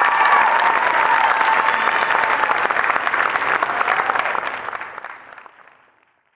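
Audience applauding, with a few voices calling out, fading out near the end.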